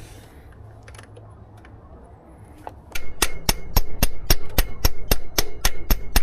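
Metal hand tool on the engine making sharp metallic clicks, a few scattered at first, then from about three seconds in a fast even run of about four a second with a slight ring.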